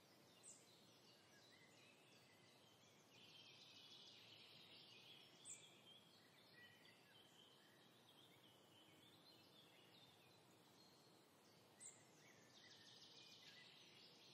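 Near silence: faint room tone with distant bird chirps and twitters, and a few brief sharper chirps.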